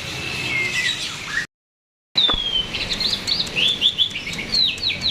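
Jalak (starling) singing: falling whistles, then the sound drops out completely for about half a second, then a quick run of short whistled notes, each sliding downward, several a second.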